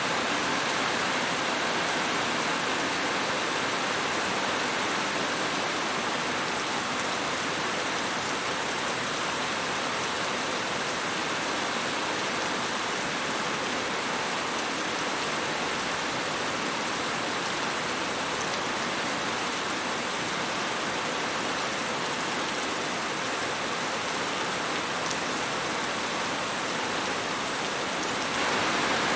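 Steady rain falling, an even hiss of dense drops, a little louder just before the end.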